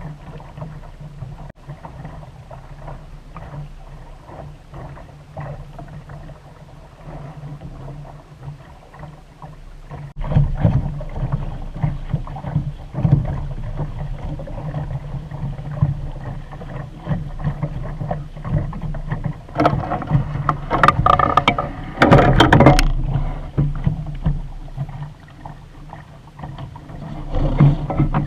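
Water washing and splashing against the hull of a Sunfish sailboat under way, picked up muffled by the camera's poor microphone. It gets louder about ten seconds in, with a louder, rougher stretch of splashing around twenty seconds in.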